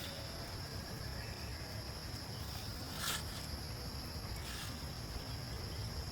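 Steady high-pitched buzz of insects, with a low rumble underneath and a short sharp click about three seconds in.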